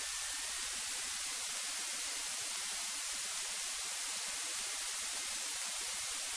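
Steady hiss of static from an aircraft's radio and intercom audio feed, with a faint thin tone that drifts slightly upward.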